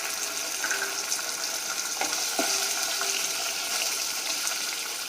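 Green chillies and whole spices sizzling in hot oil in a pan, a steady hiss, with two light taps about two seconds in.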